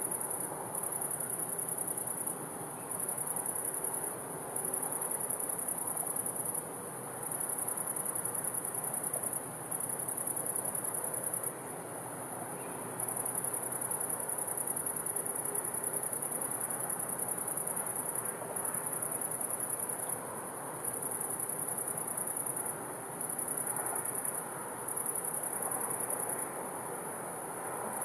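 High-pitched trilling of crickets or a similar insect, in runs of a few seconds broken by short pauses, over a soft, even rush of river water.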